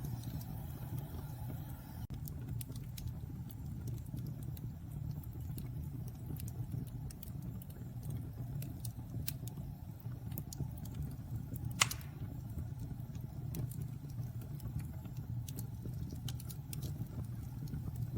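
Wood fire burning in a fireplace: a steady low rumble from the flames, with scattered small crackles and pops and one louder pop about twelve seconds in.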